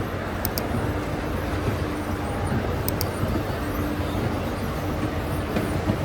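Steady rumble and hiss of a moving vehicle, with a faint low hum coming and going and a few faint, sharp high ticks.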